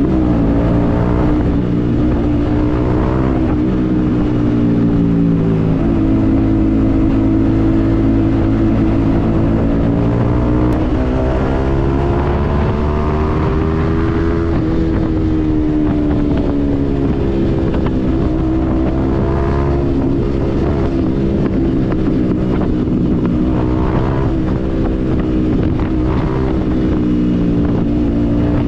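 Yamaha MT-15's single-cylinder engine through a Yoshimura aftermarket exhaust while riding, its pitch rising and falling several times as the bike speeds up, shifts and eases off.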